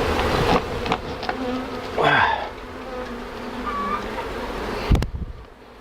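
Swarm of honeybees buzzing around an open hive being worked by hand, with a few sharp knocks of handling and a bump near the end, after which the buzzing goes quieter.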